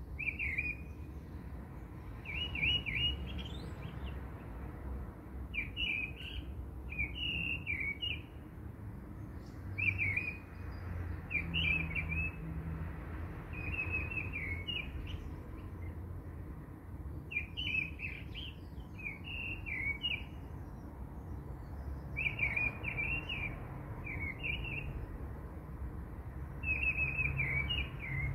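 A small bird chirping in short, quick twittering phrases that recur every second or two, over a low steady hum.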